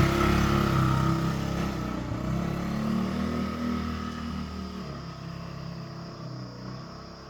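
Small scooter engine running, its pitch rising a little about two to three seconds in, then fading steadily as it moves away.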